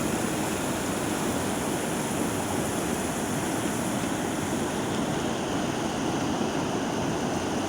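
Stream water rushing in a steady, even flow.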